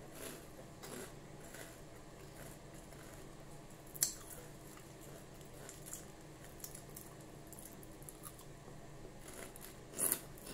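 Close-up chewing of chicharon (deep-fried pork crackling) dipped in vinegar: faint, irregular crunching and wet chewing, with a sharper crunch about four seconds in and another near the end.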